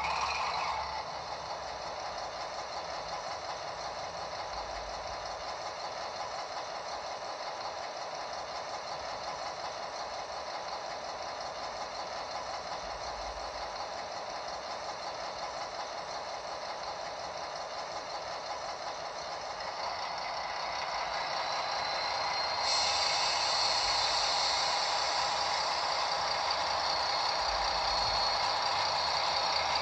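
H0-scale (1:87) model diesel locomotive running, its diesel engine sound steady at first. The sound grows louder about two-thirds of the way in, then steps up sharply, as when the engine is throttled up.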